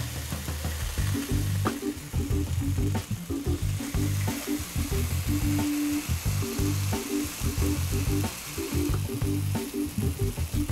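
Ripe plantain pieces sizzling as they cook pressed in a waffle maker, a steady frying hiss, with background music playing.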